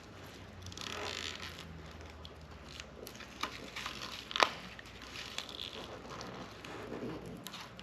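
Dried rubber dip coating being peeled and picked off car emblems by hand: soft crinkling, scraping and tearing, with a sharp click about four and a half seconds in.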